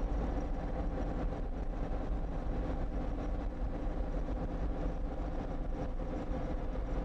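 Naturally aspirated Cummins 220 inline-six diesel in a 1954 Kenworth tractor, running steadily under way at an even speed.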